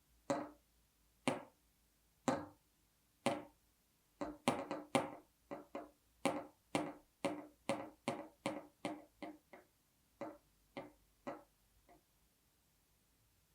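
Pneumatic pistons of a metal desk fidget toy knocking as they are worked by hand: a series of sharp knocks with a short ring. They come about once a second at first, quicken in the middle, then thin out and fade near the end.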